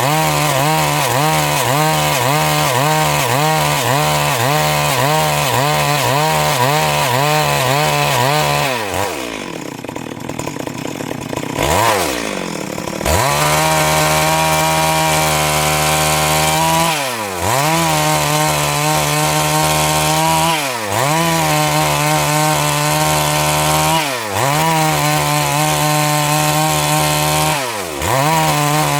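Stihl MS 382 two-stroke chainsaw ripping lengthwise through a Siris log, running at high revs under load. About nine seconds in the revs drop off for a few seconds, then rise back up. After that it runs steady, with brief dips in revs roughly every three and a half seconds.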